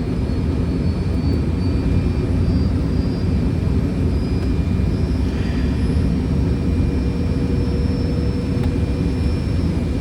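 Steady cockpit noise of a Fokker 100 airliner on approach: an even low rush of airflow and engine drone, with faint steady high tones running through it.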